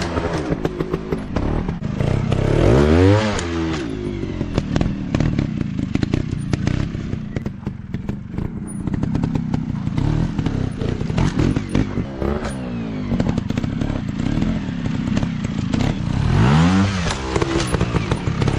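Small dirt bike engines revving and easing off in repeated surges, about three times over, with clattering and knocking from the bikes working over rough ground.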